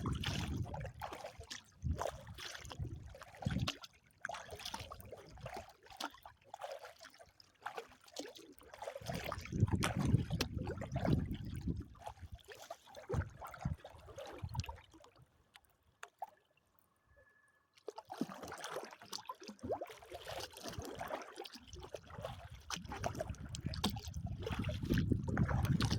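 Water trickling and splashing around a small kayak being paddled, with wind gusting on the microphone. The sound drops out briefly about two-thirds of the way through.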